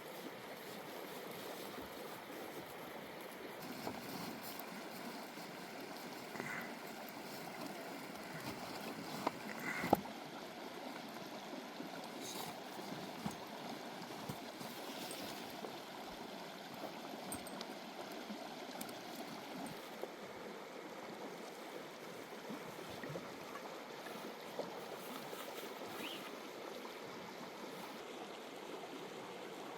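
Steady rushing of water, with scattered light ticks and drips over it and one sharper tick about ten seconds in.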